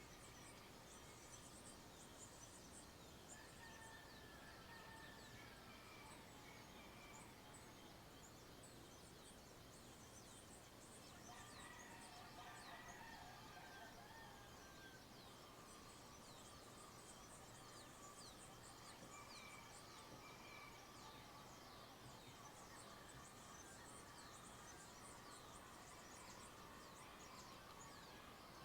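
Faint dawn birdsong: many birds chirping in quick, high, falling notes, with lower warbling calls coming in a few seconds in, again about halfway through, and near the end.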